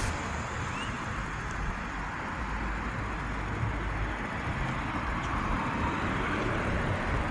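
Steady road traffic noise of cars going by, with a heavier low rumble for a couple of seconds in the middle as a vehicle passes.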